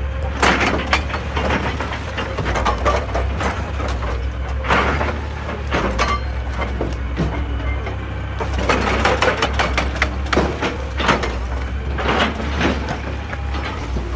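Excavator's diesel engine running steadily under load, with repeated knocks and clatter of rock and stone as the machine digs and breaks rock on the slope.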